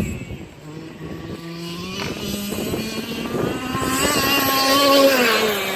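Small gasoline two-stroke engine of a Losi 1/5-scale Monster Truck XL RC truck running. It drops back and quietens about half a second in, then revs up and grows louder, peaking about five seconds in before easing off.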